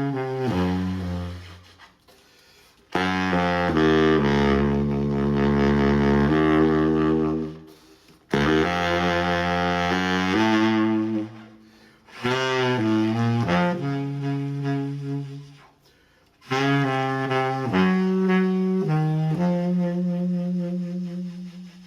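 Saxophone playing slow meditative phrases of sustained notes, some of them low, each phrase a few seconds long and separated by short breaths of near quiet.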